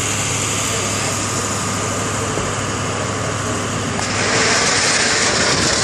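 Steady hum of a running vehicle engine with road noise, and a louder rush of noise coming in about four seconds in.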